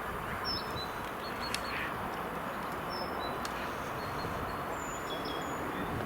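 Steady rushing noise of wind and riding on a moving bicycle, with a few short, high bird chirps over it.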